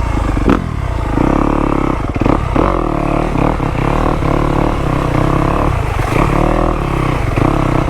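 Dirt bike engine revving in short repeated throttle bursts, its pitch rising and falling, with a sharp knock about half a second in and some clatter.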